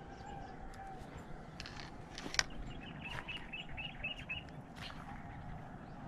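A bird calling: a quick run of about eight short, high chirps starting about three seconds in, over steady low background noise. A single sharp click comes just before the chirps.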